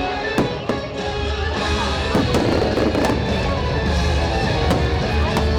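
Fireworks show music playing, with several sharp firework bangs going off over it.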